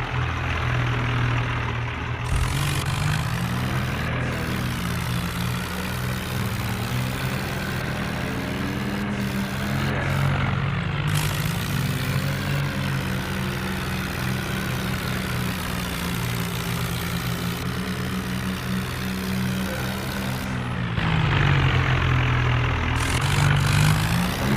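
Tractor engine running with its pitch rising and falling as the throttle changes, louder near the end.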